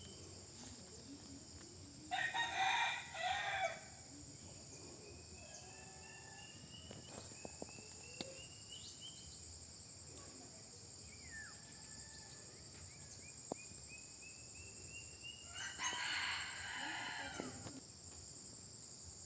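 Rooster crowing twice, one crow a couple of seconds in and another near the end, over a steady high-pitched insect chorus.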